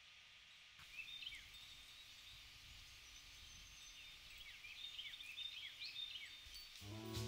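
Faint outdoor ambience with small birds chirping: many short, quick chirps that drop in pitch, coming in after a brief near-silence. Soft music begins near the end.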